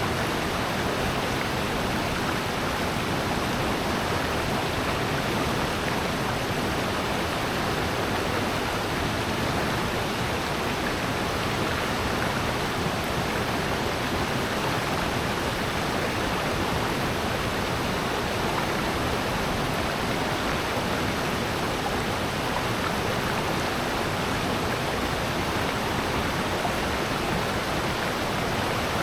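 Mountain stream rushing over rocks in a gorge, a steady, unbroken rush of water with a waterfall in it.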